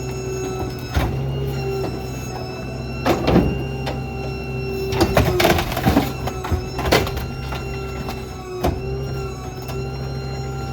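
Small rear-load garbage truck (Ford F-550 with a New Way Diamondback body) running with a steady hum and a held whine, while trash and metal clank and thud against it several times, most heavily about three seconds in and again between five and seven seconds in.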